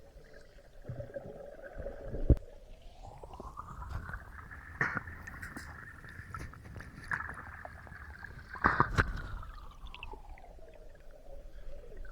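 Underwater metal detector's audio tone climbing smoothly in pitch, holding high for several seconds, then sliding back down to its lower hum, the sign of the coil passing over metal. Sharp knocks break in a few times, the loudest about two seconds in.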